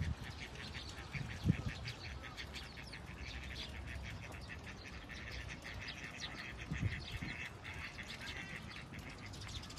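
Many small birds chirping rapidly and continuously, with a low thump about a second and a half in and another about seven seconds in.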